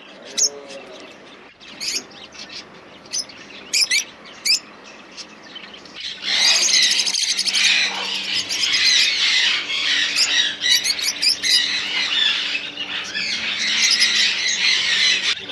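Many caged small birds calling: a few sharp, high chirps and squeaks at first, then from about six seconds in a dense, continuous chatter of many birds at once.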